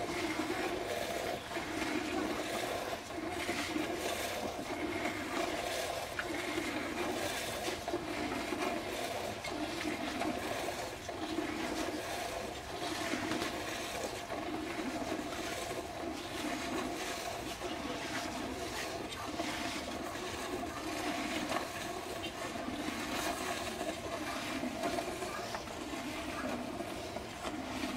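Cow being milked by hand: streams of milk squirting into a bowl of frothy milk in a steady rhythm, about one pulse a second, over a steady hum.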